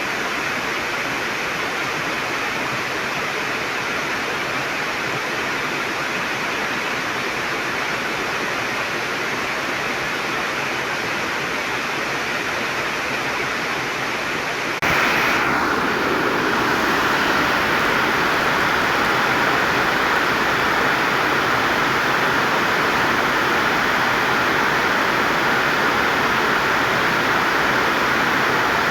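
Heavy rain pouring down, a steady dense hiss of falling water. About halfway through it abruptly gets louder and brighter.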